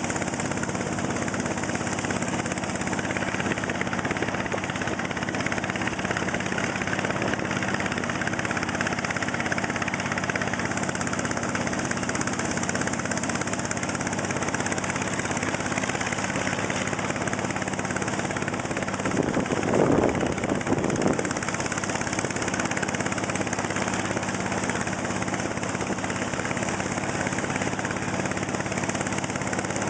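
Motor boat engine running steadily at cruising speed, with water and wind noise. Near two-thirds of the way through, a second or two of louder rushing noise rises over it.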